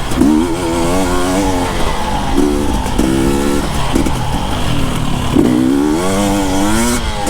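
Husqvarna TE 250i two-stroke enduro dirt bike being ridden, its engine revving up and down with the throttle. The pitch rises and falls several times, with a longer climb over the last couple of seconds.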